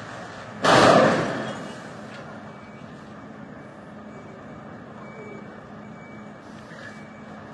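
Steady hum of vehicles on a snowy street. About a second in, one sudden loud noise rises and dies away over about a second.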